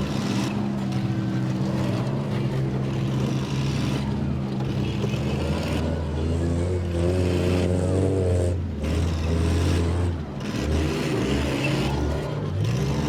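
Several demolition derby cars' engines running together, rising and falling in pitch as they rev, strongest about halfway through and again near the end.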